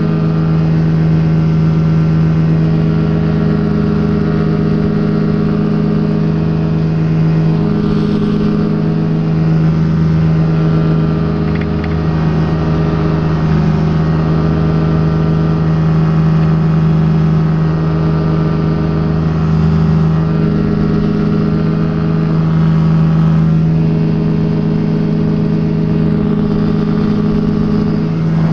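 Rotax engine of a Quad City Challenger ultralight running steadily at power, a loud constant drone that wavers slightly in pitch. Wind rushes over the open cockpit underneath it.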